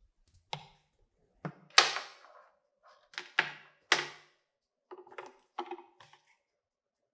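A series of about nine sharp knocks and clatters at irregular intervals, each with a short ringing tail, the loudest a little under two seconds in.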